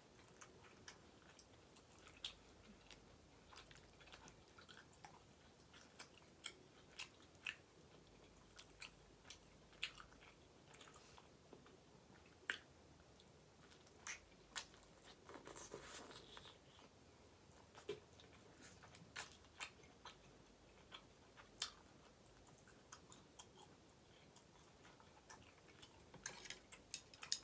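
Quiet, close-miked chewing and biting of lobster tail meat: soft, scattered wet mouth clicks.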